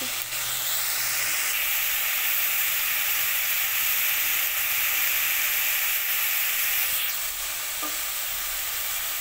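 Broccoli florets sizzling steadily in hot mustard oil in a wok, frying over medium heat.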